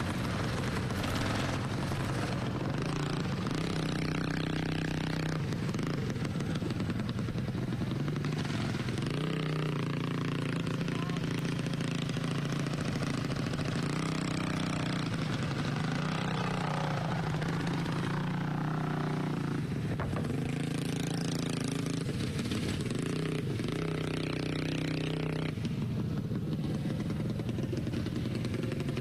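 Racing lawnmower engines running hard around a track, their pitch rising and falling as they speed up and ease off.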